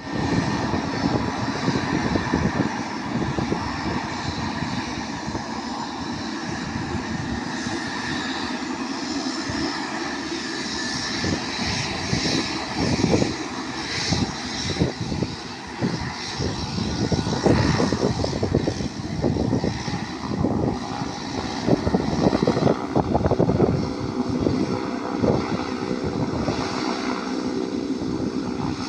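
Airliner's turboprop engines running steadily on the ground, with a gusty rushing noise that comes and goes over it.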